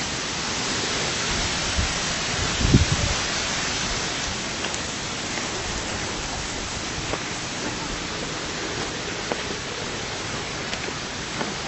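Steady rushing water of a valley stream or small waterfall, an even hiss with no pitch. A brief low bump comes about three seconds in.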